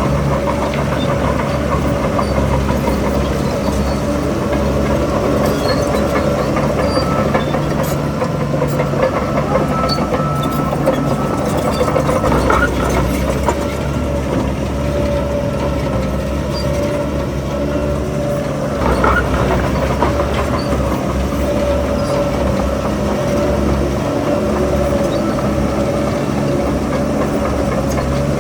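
Heavy diesel engine of an earthmoving machine running steadily under work, with a constant whine over its low hum.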